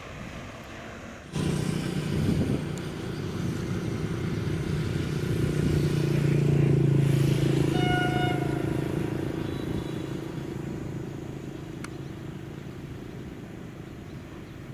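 Diesel train engine running as it approaches and passes, loudest about halfway through and then fading away. A brief horn note sounds about eight seconds in.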